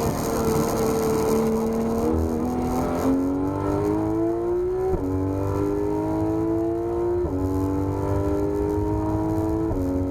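Porsche 991 GT3 RS's flat-six accelerating hard, its pitch climbing steadily through each gear and dropping sharply at quick paddle upshifts about five, seven and nearly ten seconds in.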